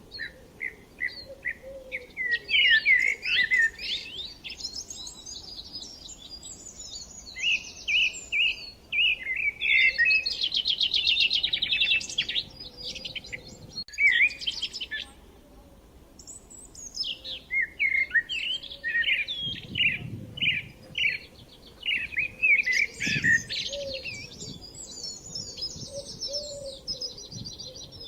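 Songbirds singing: bursts of varied chirps, whistled notes and fast trills, with short lulls between phrases.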